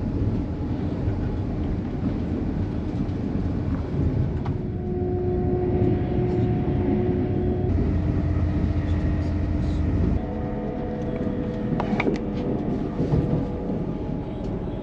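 Steady running rumble of a passenger train heard from inside the carriage. A steady whine comes in twice, and there are a few light clicks.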